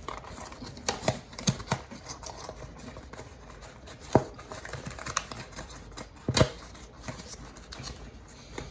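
Hands working at a cardboard blind box and its packaging: light rustling with scattered taps and scrapes, and two sharper knocks about four seconds in and past six seconds.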